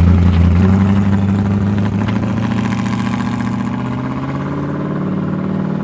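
Modified Ford Cortina's engine running at low revs as the car pulls away, its low, deep note slowly fading as it moves off.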